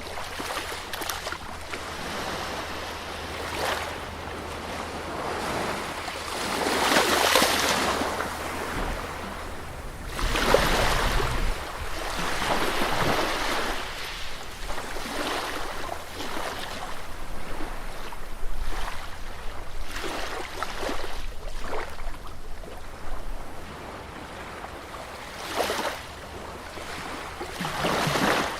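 Sea waves breaking and washing onto a beach, swelling and falling every few seconds, with the loudest surges about seven and ten seconds in.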